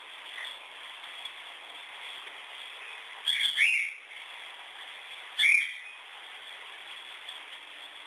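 A bird calling: two short, sharp calls in quick succession about three seconds in and one more about two seconds later, over a steady background hiss.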